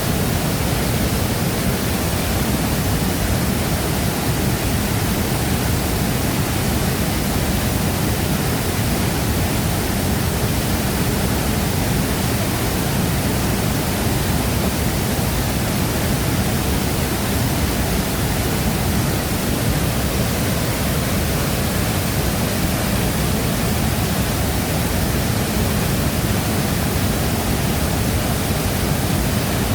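Waterfall pouring into its plunge pool: a steady, dense roar of falling water, heaviest in the low end.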